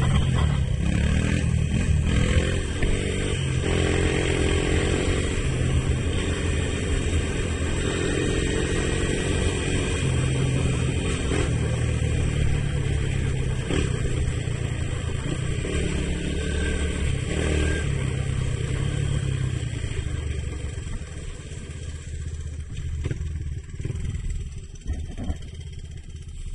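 1983 Honda ATC185s three-wheeler's single-cylinder four-stroke engine running under throttle, its pitch rising and falling with the revs. Over the last several seconds it grows quieter.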